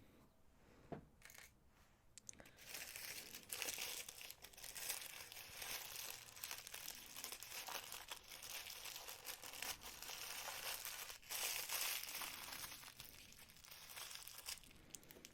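Soft rustling of packaging handled by hand, with small clicks, starting about two and a half seconds in and easing off near the end.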